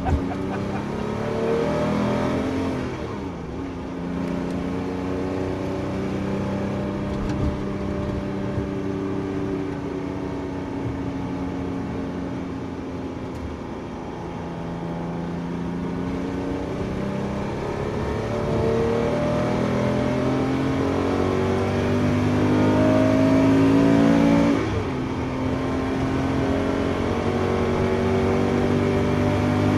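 Porsche 911 GT3's flat-six engine heard from inside the car under hard acceleration. The revs climb steadily, drop once about three seconds in, and are loudest just before a sharp upshift about 25 seconds in, after which they climb again.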